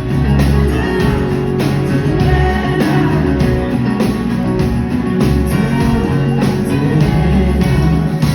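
A live rock band playing an instrumental passage between sung lines: bass, steady drum hits and guitar.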